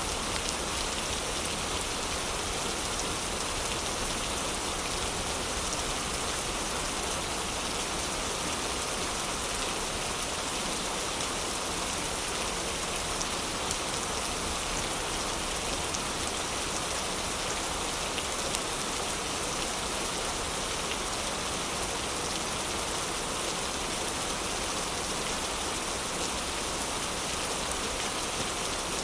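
Steady heavy rain: a dense, even hiss. A few sharp pops from a crackling wood fire stand out, the clearest about two-thirds of the way through.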